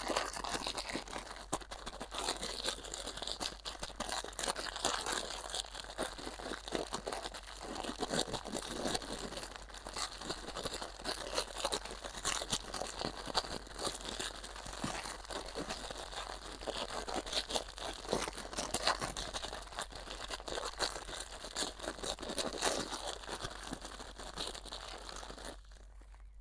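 Continuous crinkling and crackling, like something being crumpled or handled, made of many small rapid clicks, with a brief drop in level near the end.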